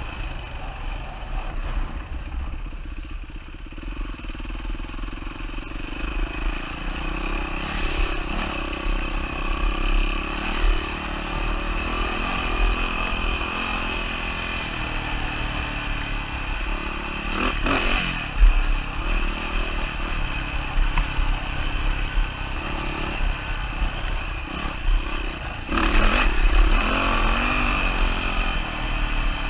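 2007 Yamaha WR450F dirt bike's single-cylinder four-stroke engine running steadily, revving up in surges about halfway through and again near the end, with a few sharp knocks along the way.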